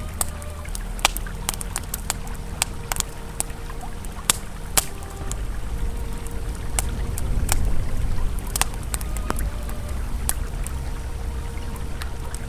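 Campfire crackling with irregular sharp pops over the steady low rush of a flowing river.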